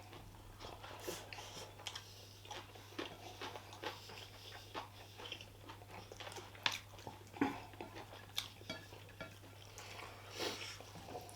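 Close-miked chewing of pork curry and rice, with scattered short wet clicks and a few louder ticks, over a faint steady low hum.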